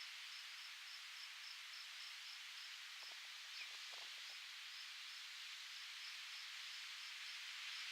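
Steady wind hissing through foliage, with a high, thin chirp repeating evenly about three times a second, and a few faint rustles about halfway through.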